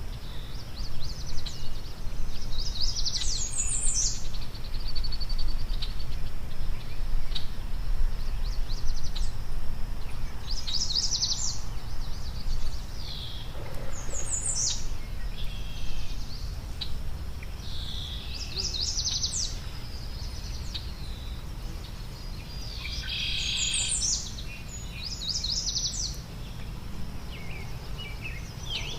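A songbird singing short, high, fast-trilled phrases about every three to four seconds, over a steady low rumble.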